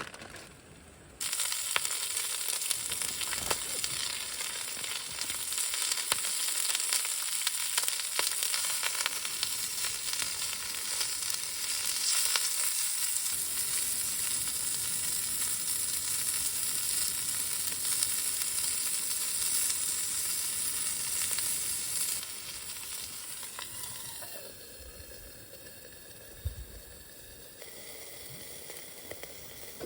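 Food sizzling in hot oil in a pan, starting abruptly about a second in and easing to a quieter sizzle after about twenty seconds.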